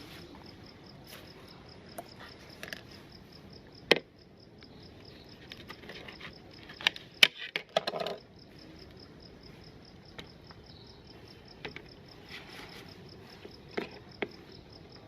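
Crickets chirping in a fast, even pulse in the background, with scattered sharp clicks and knocks. The loudest clicks come about 4 and 7 seconds in.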